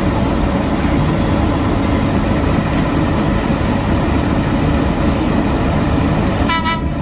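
Heavy road-construction machinery running steadily with a deep diesel rumble. A short high-pitched tone sounds briefly near the end.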